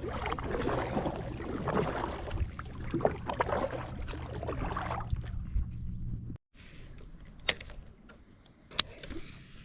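Kayak under way: water sloshing and small knocks from paddling and the hull, over a steady low hum. It cuts off suddenly about two-thirds of the way through, leaving a quieter stretch with two sharp clicks.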